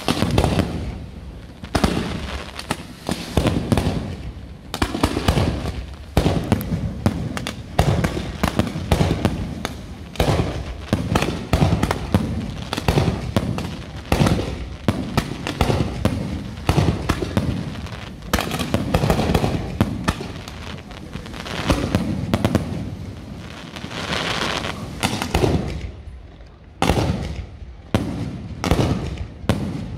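Fireworks display: aerial shells and mortars going off in a dense, continuous barrage of bangs and booming bursts, easing briefly a few seconds before the end before the bangs pick up again.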